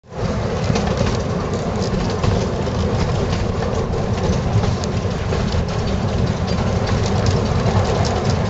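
Steady rumble and rattle of a narrow-gauge steam train's carriage running along the track, with many light clicks throughout.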